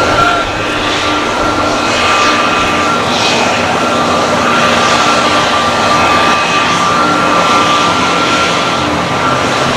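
An All Nippon Airways Airbus A320neo's Pratt & Whitney geared-turbofan jet engines, loud and steady, with a whine held on a few fixed notes.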